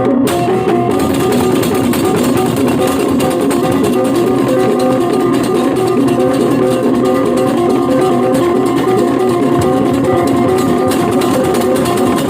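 Balinese gamelan playing continuously: bronze metallophones ringing with many overlapping pitches, driven by fast, dense strokes.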